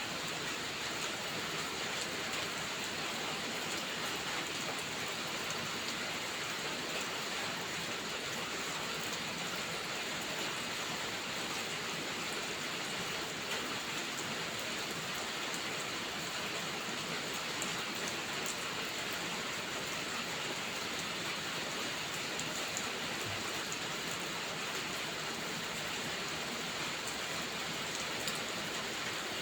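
Steady rain falling: an even hiss with faint scattered ticks.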